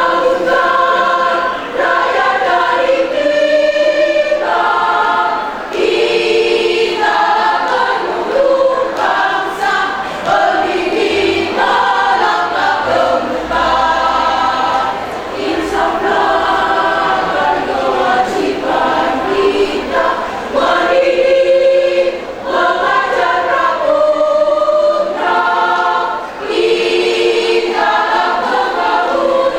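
A choir singing, phrase after phrase, with brief breaks between phrases.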